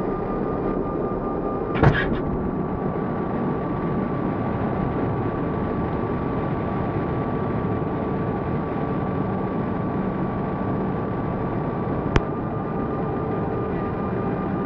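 Steady airliner cabin noise of the engines and airflow, with a few steady droning tones, broken by two short sharp clicks, one about two seconds in and one about twelve seconds in.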